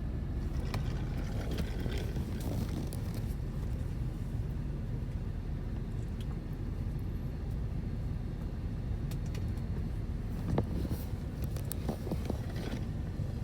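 Steady low rumble of an idling car, with a single short knock about ten and a half seconds in.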